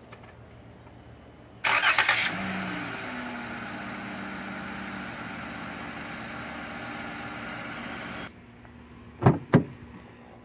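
A 2016 Chrysler Town & Country's 3.6-litre V6 being remote-started: the starter cranks briefly about two seconds in, and the engine catches and settles into a steady fast idle. The engine sound stops abruptly near the end and is followed by two sharp knocks.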